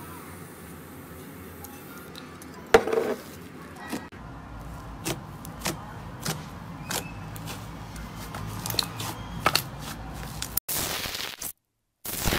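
Slime being handled and squeezed, giving scattered sticky clicks and pops, with one sharper snap about three seconds in. The sound drops out abruptly twice near the end.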